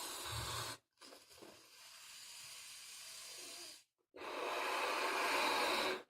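A balloon-art modelling balloon being blown up by mouth: breathy blows of air into it, a short one, then a longer, quieter one, then the loudest blow near the end, with brief pauses for breath between.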